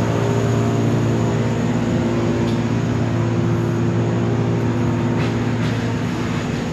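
Engine of heavy tree-removal machinery running steadily at a constant speed, with a few faint ticks.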